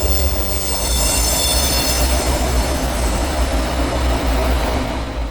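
A Tren Urbano metro train running, with a loud, steady low rumble. A high-pitched whine sets in at the start and fades away over the next few seconds.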